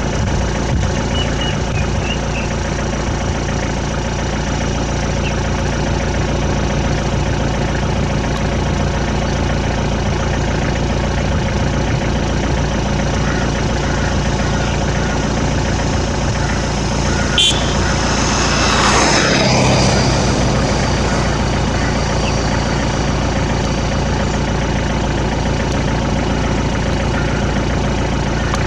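A steady engine hum, like a motor vehicle idling, with a sharp click about two-thirds of the way in and a brief louder rush shortly after.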